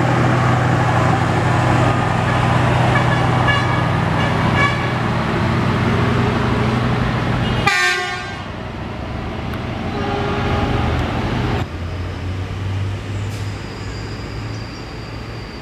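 Passenger train departing and rolling past close by: a steady rumble of wheels on rail with some high tones over it, dropping off sharply about eight seconds in as the last coach clears. Near the end a lower, steady diesel engine hum from a Plasser track-maintenance machine.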